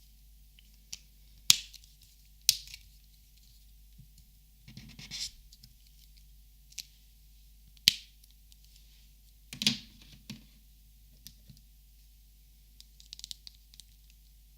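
Copic markers being handled, giving sharp plastic clicks one at a time, a second or more apart. There is a short rustle about five seconds in and a few light ticks near the end.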